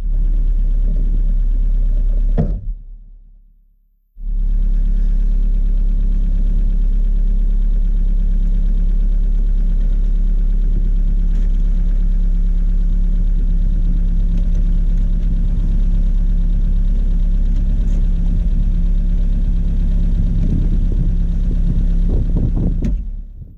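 Daihatsu Feroza's engine idling steadily, heard from inside the cab. The sound fades away about two and a half seconds in and comes back suddenly about a second and a half later.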